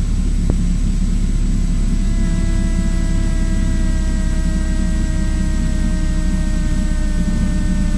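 Cessna 172's piston engine and propeller droning steadily in the cockpit, throttled back to idle for a simulated engine-fire glide. A faint steady whine joins the drone about two seconds in.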